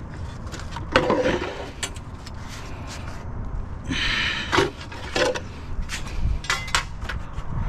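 An empty plastic storage tote being picked up and handled: scattered knocks and clatters, with a short scraping rustle about four seconds in.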